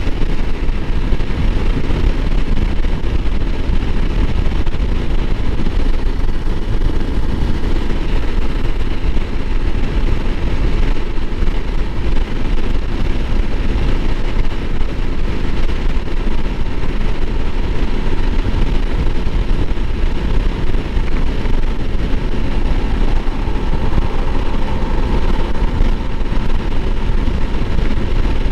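Honda CRF300L Rally's single-cylinder engine running at a steady cruise, mixed with heavy wind rush on the microphone. The engine note shifts slightly near the end.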